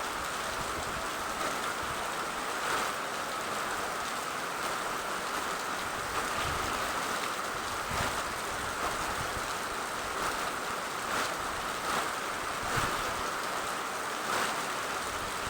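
Steady rain: an even hiss with occasional brief louder spatters.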